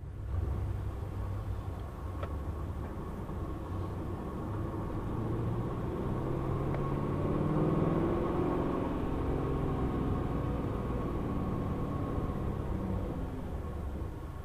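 Chevrolet Camaro 1LE's V8 engine heard from inside the cabin, pulling at low speed; its pitch and loudness rise gently about halfway through as the car gathers speed, then ease off again.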